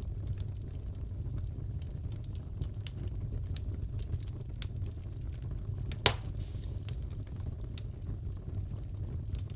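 Crackling fireplace: a steady low rumble of burning wood with frequent small crackles and one louder pop about six seconds in.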